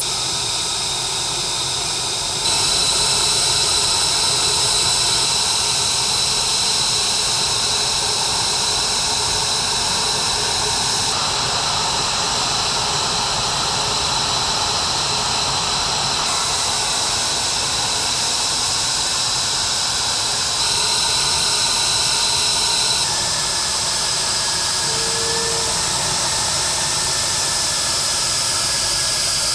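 F-22 Raptor's twin Pratt & Whitney F119 turbofan jet engines running with a steady rush and a high-pitched whine. The sound shifts abruptly several times between shots.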